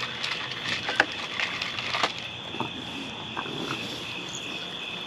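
Steady high-pitched trilling of night insects, with scattered light clicks and knocks, the sharpest about one and two seconds in.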